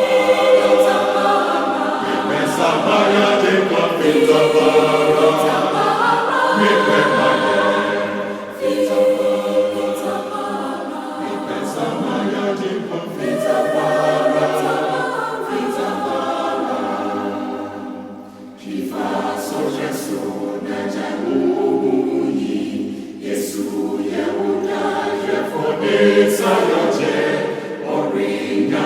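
A choir singing a hymn unaccompanied, several voices in harmony, in long phrases with a short break about two-thirds of the way through.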